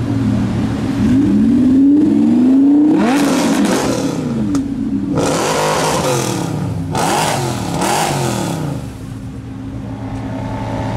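Mercedes C63 AMG Black Series 6.2-litre V8 with a catless iPE exhaust being revved repeatedly while stationary: a long climb in revs, then three loud rev blips that rise and fall in pitch. The revving eases off near the end.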